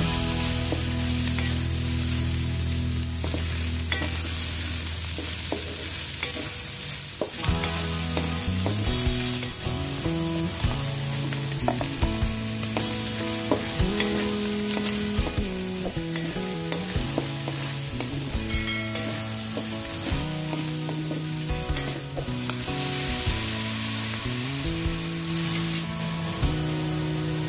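Chicken and onions sizzling as they fry in a stainless steel wok, with a wooden spatula stirring and scraping against the pan, over soft background music.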